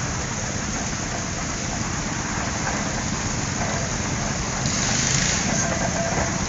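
Antique tractor engines running, with a fast low chugging under a steady rushing hiss. The hiss grows louder about five seconds in.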